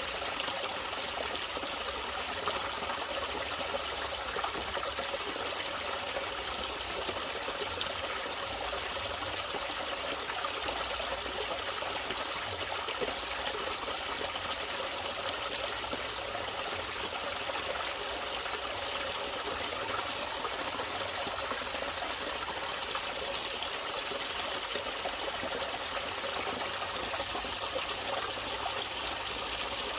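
Natural running water trickling and splashing steadily in a small stream.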